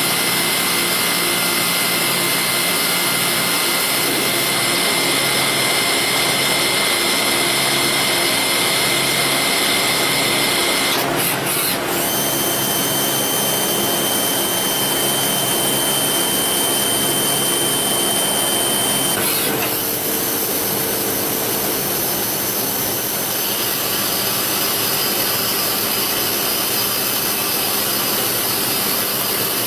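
Citizen Swiss-type CNC lathe machining a bone screw with Low Frequency Vibration cutting. It makes a steady machine noise with a high, thin whine. After short breaks about eleven and nineteen seconds in, the whine jumps to a different pitch.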